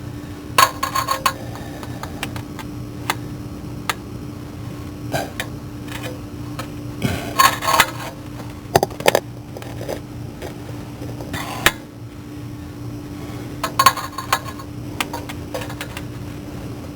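Wrench and hand tools clinking and clicking against metal in short bursts, about five times, during work on a starter's power-wire terminal. A steady low hum runs underneath.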